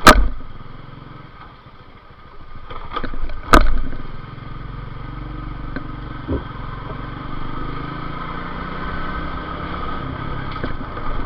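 Motorcycle engine pulling under load while riding at speed, with road and wind noise. There are two sudden loud bursts, about three and a half seconds apart, and the engine note then climbs gradually as it accelerates.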